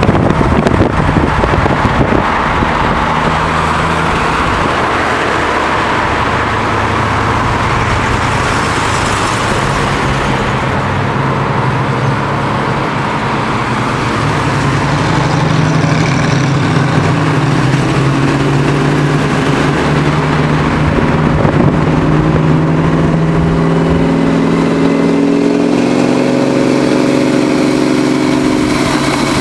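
V8 engines of classic American cars running on the road, heard from a car driving alongside, under wind and road noise. In the later part one engine's note climbs steadily as it pulls harder.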